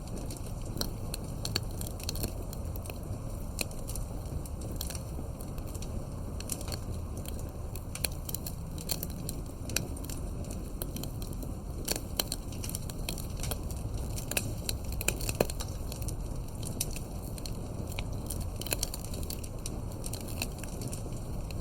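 Campfire crackling: firewood burning with frequent irregular snaps and pops over a low steady rumble of the flames.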